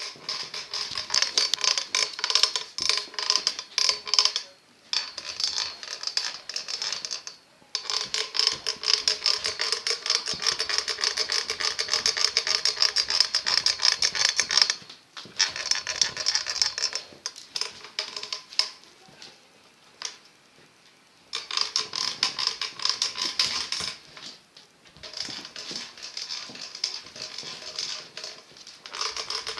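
Stunt scooter squeaking and clicking in fast, repeated strokes as it is worked, with a few short pauses. The squeak is the fault being shown.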